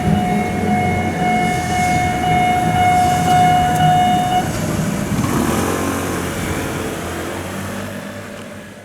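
A train passing through a railway level crossing: the rumble of its wheels and cars, with a steady high ringing tone over it that stops about four and a half seconds in. The train's noise then fades away.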